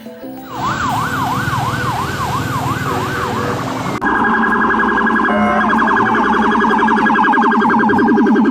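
Electronic police-car siren from a toy police car: a fast rising-and-falling wail, about three sweeps a second, for about three seconds, then about four seconds in it switches to a rapid warbling siren.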